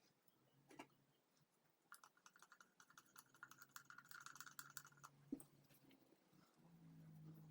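Faint, rapid metallic clicking for about three seconds, from hand work on small engine parts, over a faint low hum.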